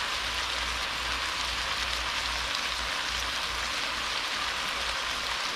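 Tuna chunks and mixed vegetables sizzling steadily in a nonstick frying pan as the stir fry cooks.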